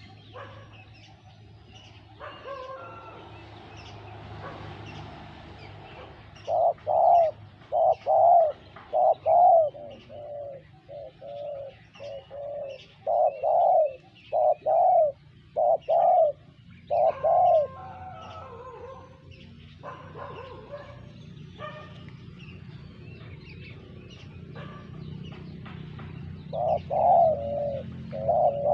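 Spotted doves cooing in repeated phrases of short coos: one long run from about six seconds in to about eighteen seconds, and another starting near the end. Scattered short clicks and faint chirps run underneath.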